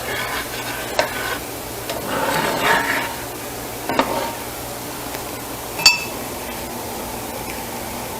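Enchilada sauce being poured and spooned from a saucepan over enchiladas: a spoon scraping and stirring in the pan with a few knocks, and a sharp ringing clink about six seconds in.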